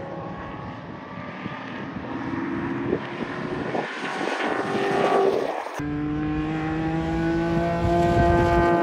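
A BMW's engine pulling hard on a race track, its pitch climbing. About six seconds in the sound changes abruptly to a steadier engine note that climbs slowly.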